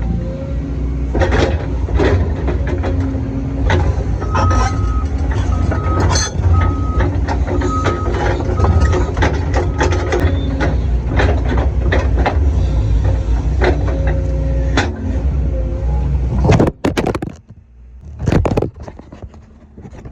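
Excavator's diesel engine running with the bucket scraping and knocking through dirt and rocks, many sharp knocks over a steady low rumble. In the middle comes a run of about six short beeps. The machine sound cuts off abruptly near the end.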